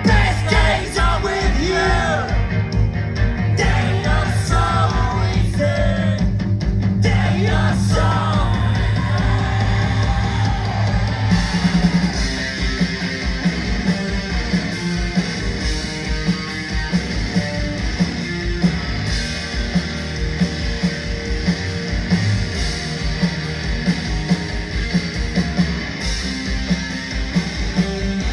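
Rock band playing live: electric guitar, bass and drums. A melodic line bends up and down over the first ten seconds or so, then the band settles into a denser, steady strummed section.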